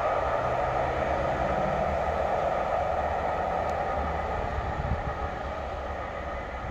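Empty coaching stock train hauled by a Class 57 diesel locomotive running away into the distance, a steady rumble that slowly fades.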